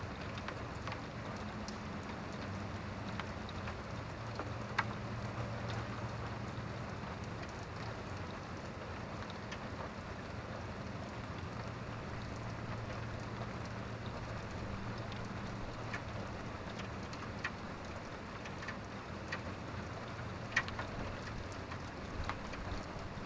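Steady rain falling on a surface, with scattered individual drops ticking louder now and then, two sharper ones about 5 s in and near the end. A steady low hum sits underneath.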